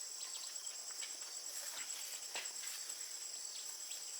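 A steady, high-pitched insect chorus that pulses rapidly, with a few faint scattered clicks over it.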